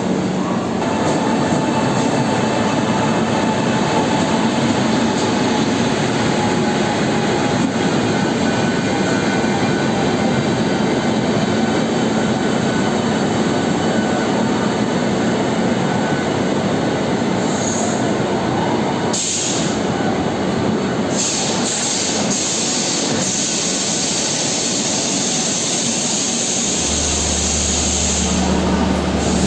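Double-decker passenger train running on rails, a steady loud rumble of wheels and coaches. A low hum joins near the end.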